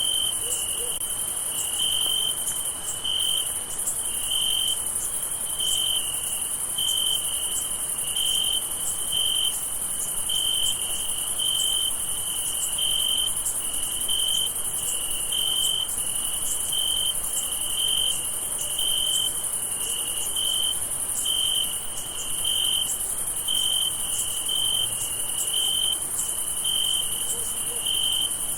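Crickets at night: one chirps in a steady rhythm, about once a second, over a continuous high-pitched trill of many more insects.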